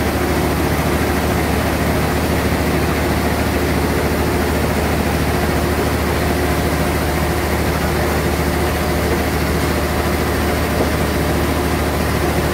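Sawmill bandsaw machinery running steadily: a constant low machine hum with several steady tones under an even noise.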